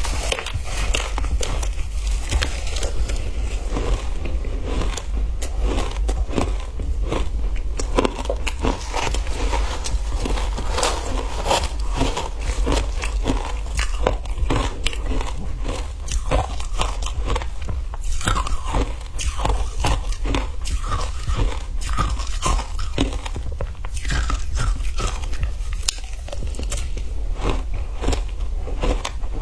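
Close-up biting and crunching of frozen ice, a dense run of irregular crackling crunches, over a steady low hum.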